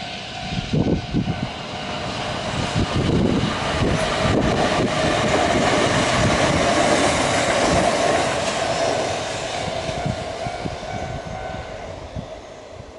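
Kintetsu train passing over a level crossing, growing louder to a peak about halfway and then fading away. A steady electronic crossing warning bell rings with it and stops near the end.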